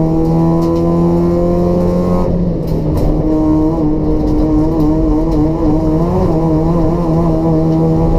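Racing Toyota Etios's 1.5-litre petrol engine through a free-flow exhaust, under load with revs slowly climbing. About two seconds in the revs drop suddenly, as in a lift or gear change. The pitch then wavers before climbing steadily again.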